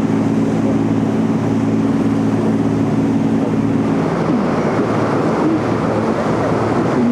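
Tour boat's engine running with a steady low hum, under a rush of wind and water noise as the boat cruises.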